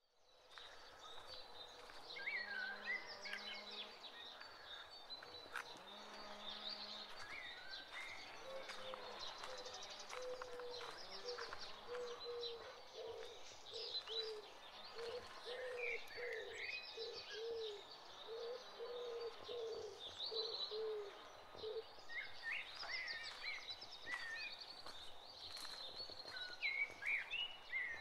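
Several birds chirping and calling at once, with short high squiggly calls throughout. A lower call is repeated at an even pace, about twice a second, through the middle of the stretch.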